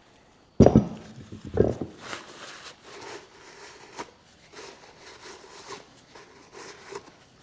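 Two heavy thumps, then a rag rubbing and wiping out the inside of a wheel hub in repeated uneven strokes, with a small click partway through.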